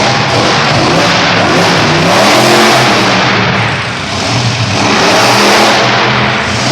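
Monster truck engine revving hard, its pitch rising and falling as the throttle is worked, loudest about two and a half and again five and a half seconds in with a brief dip between.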